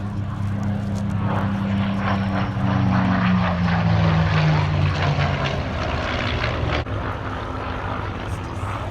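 Supermarine Spitfire's Merlin V12 engine making a pass, the engine note loudest about four seconds in and dropping in pitch as the aircraft goes by.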